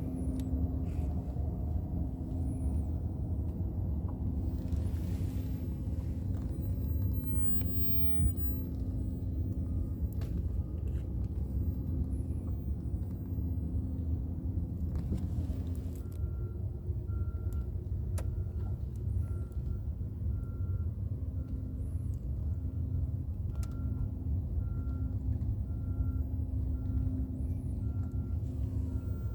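Small fishing boat's motor running steadily with a low rumble. About halfway in, a faint high beep starts repeating a little faster than once a second.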